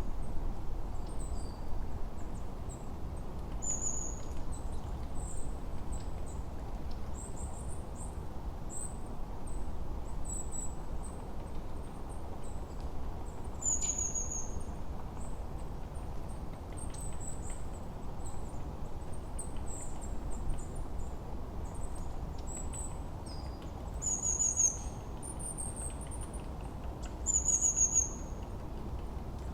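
Small songbirds calling in a forest: short, very high, thin notes that slide downward, scattered every second or two, over a steady low background rush.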